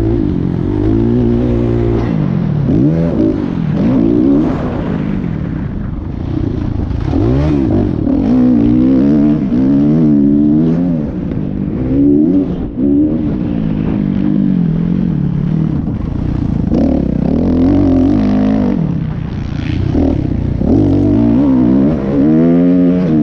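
Motocross dirt bike engines revving up and down over and over, the pitch rising and falling every second or two as the riders work the throttle and shift.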